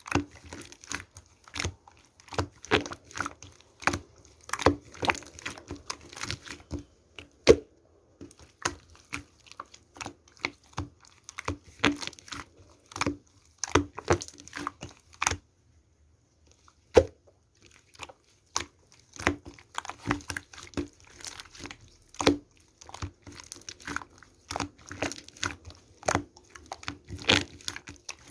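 Hands squeezing and stretching slime, making a close, irregular run of sticky pops, clicks and crackles, with a short pause about halfway through.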